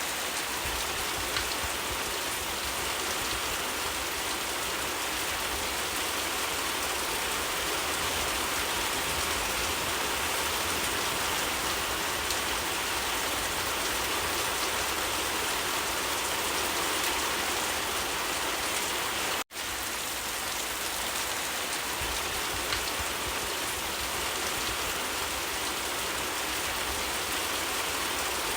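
Steady rain falling, an even hiss of many drops on surfaces. It cuts out for a split second about two-thirds of the way through, then resumes unchanged.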